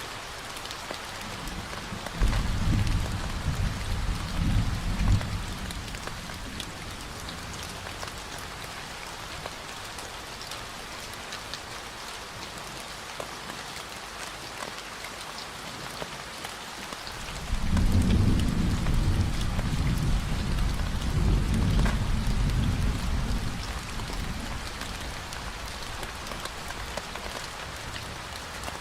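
Steady rain falling, with two low rumbles of thunder: a short one about two seconds in and a longer one starting a little past the middle.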